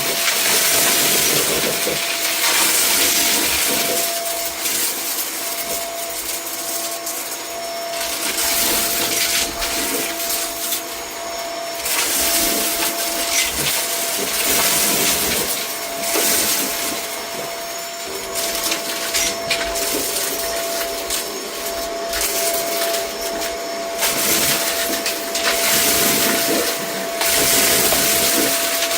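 Vacuum cleaner running with a steady motor whine, pushed back and forth over a rug so the rushing suction noise swells and eases every few seconds. Short clicks and rattles are heard as debris is picked up.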